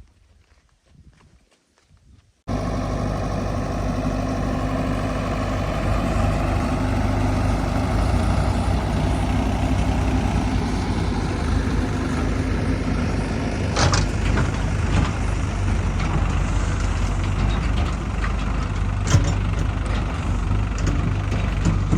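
A heavy diesel engine of a tractor or backhoe loader cuts in abruptly about two and a half seconds in and runs steadily, with a sharp clank about halfway through and another near the end.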